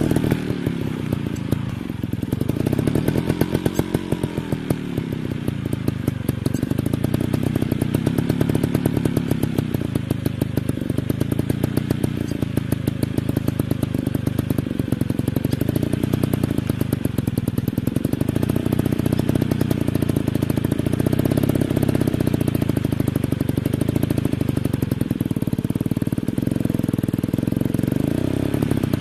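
Dirt bike engine running hard, its revs repeatedly climbing and dropping as the rider works the throttle.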